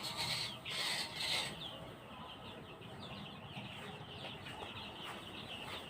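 A few scraping strokes of a rake through the shed's litter in the first second and a half, then a flock of young Sonali chicks peeping: many short, high, falling chirps overlapping.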